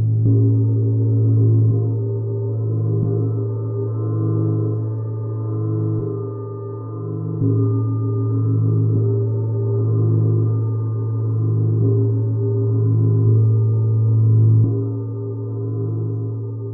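Sound-bath instruments ringing: a strong low tone that pulses slowly, with many steady overtones above it, renewed by soft strikes every few seconds.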